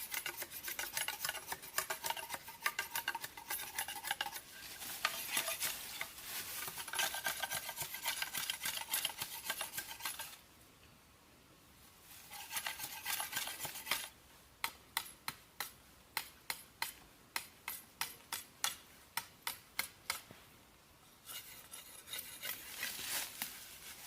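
A metal utensil stirring and scraping around a metal pot, with a ringing metallic tone. In the middle comes a run of sharp, regular taps, about two a second, before the scraping resumes near the end.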